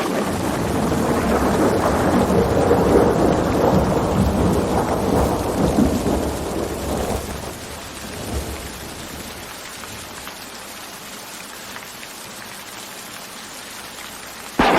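Steady rain with a long rolling rumble of thunder that swells over the first few seconds and dies away by about the middle, leaving rain alone. A sudden loud burst of noise starts right at the end.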